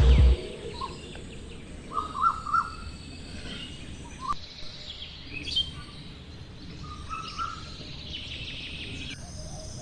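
Birds chirping in short, scattered calls over a faint steady background hiss.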